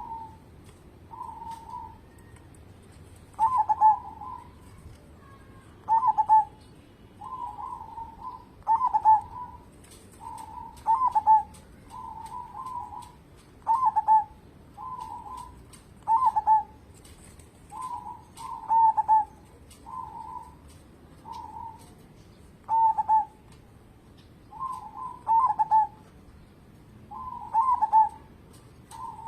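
Zebra dove cooing over and over, its short rolling coo phrases repeating about every one to two seconds, some louder and some softer.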